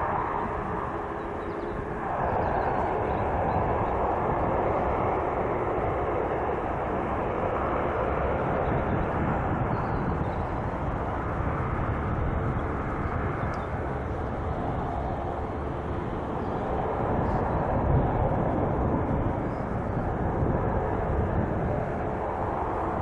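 Turboprop airliner engines and propellers running, a continuous heavy drone, with a sudden change in the sound about two seconds in.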